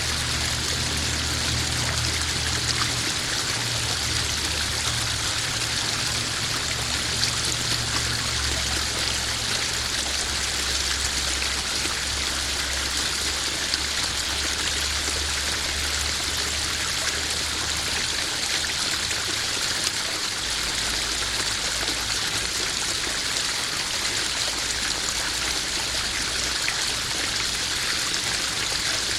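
A small garden waterfall spilling steadily into a koi pond: an even rush and trickle of running water. Underneath it runs a low rumble that changes a few times.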